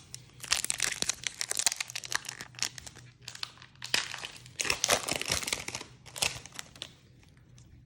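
A Pokémon booster pack's foil wrapper crinkling and being torn open, in a run of irregular crackly bursts that dies down about a second before the end.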